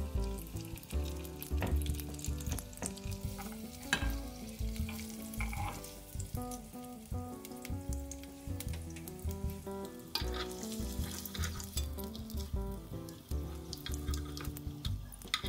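Sausage and rice-cake skewers sizzling in hot oil in a frying pan, with a few clicks of metal tongs as they are turned. Background music with a steady low beat plays underneath.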